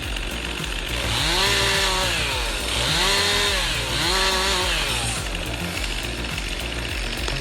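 Chainsaw engine revving up and easing off three times in quick succession, over background music with a steady low beat.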